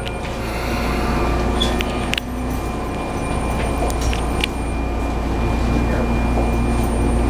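Sotetsu 9000 series electric train heard from inside the passenger car as it arrives at the terminus: a steady low rumble with faint steady whines and scattered clicks and rattles.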